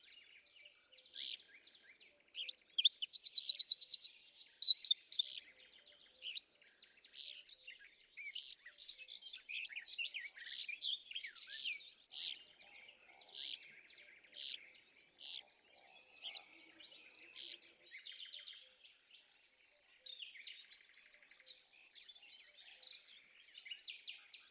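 Birdsong: a run of short chirps and whistled notes, with a loud, fast trill of rapidly repeated notes about three seconds in.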